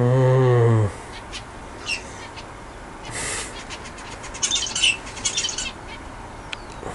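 Aviary budgerigars chirping in short, scattered high calls, with a denser flurry of chirps about two thirds of the way in. It opens with a loud low tone lasting just under a second.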